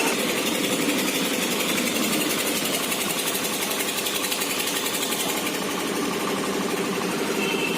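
Powertrack tractor's diesel engine running steadily, with an even fast pulse. A thin high whine comes in briefly near the end.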